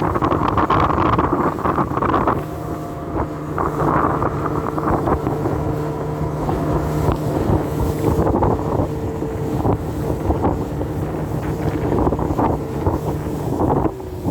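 Outboard motor of a Taktika 390 RM motorboat running in rough, stormy water, its note settling steady about two seconds in. Heavy wind buffets the microphone, and there are repeated short knocks of the hull on the waves.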